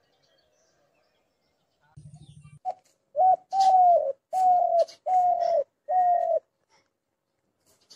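Dove cooing: after a brief low buzz, a short note and then a run of five half-second coos at an even pace, each dropping slightly in pitch at its end.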